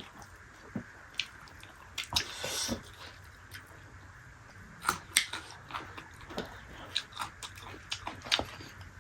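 A person eating: chewing and biting food, with scattered short wet clicks and smacks from the mouth.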